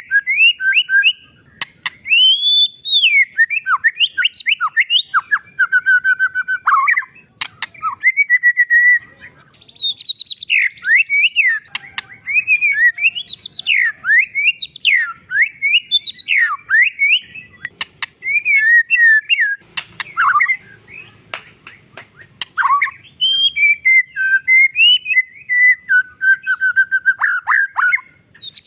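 A white-rumped shama (murai batu) singing vigorously: a near-continuous stream of varied whistled phrases with fast rising and falling sweeps, quick repeated-note runs and sharp clicks.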